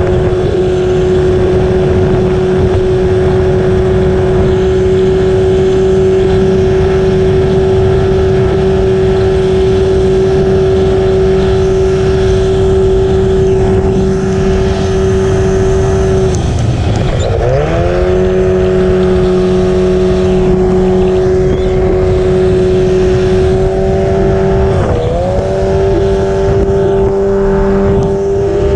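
Race boat engine running hard at a steady pitch. Its note drops sharply and climbs back about two-thirds of the way through, and dips again briefly near the end.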